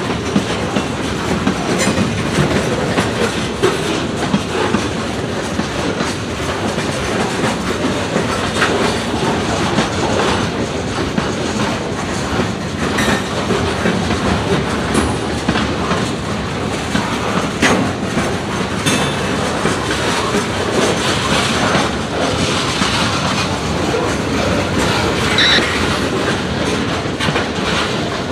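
Freight train cars rolling past, their wheels clicking steadily over rail joints, with a brief high wheel squeal near the end.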